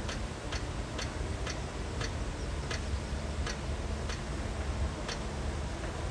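Heavy construction machinery running with a steady low engine rumble. Sharp ticks or clanks come about twice a second, slightly uneven.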